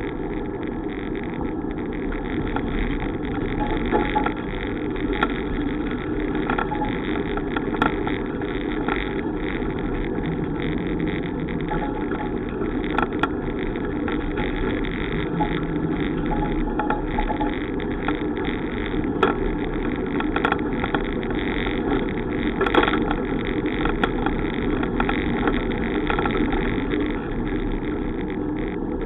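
Steady wind and rolling noise of a bicycle ride, with a few short sharp clicks or rattles scattered through it.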